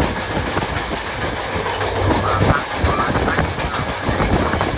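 Rocky Mountaineer passenger train running along the track, with a steady rumble and irregular clacking of wheels over the rails, heard loud and rushing from the open-air viewing platform.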